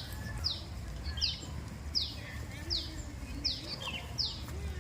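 A bird calling a short, high note that slides downward, repeated evenly about every three quarters of a second, over a steady low rumble.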